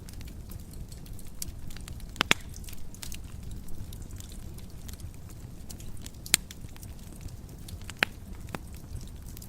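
Wood fire crackling in a fireplace: a steady low rumble from the burning fire with scattered sharp pops and snaps, the loudest about two, six and eight seconds in.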